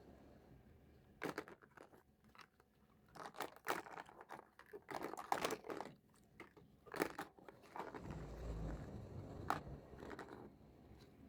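Plastic toy pieces and packaging being handled: scattered small clicks, taps and crinkling rustles at irregular intervals.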